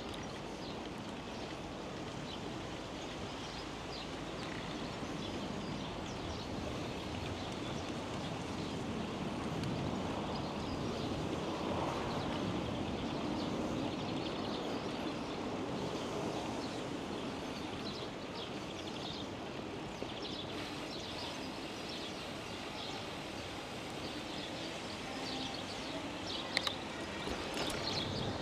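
Steady outdoor rushing noise of a bicycle ride, with air moving past and tyres rolling on the path. It swells a little midway, and a few short, faint high ticks or chirps come near the end.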